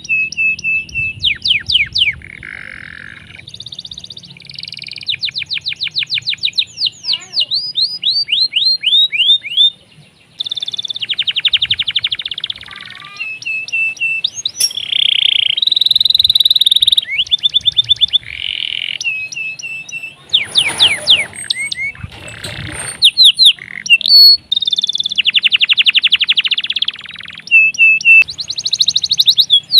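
Domestic canary singing a long, nearly unbroken song of rapid trills and rolls, with runs of quick repeated sweeping notes and short chirps, and a few harsher rasping notes about two-thirds of the way through.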